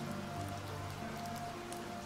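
Steady rain falling, with slow background music of long held low notes underneath.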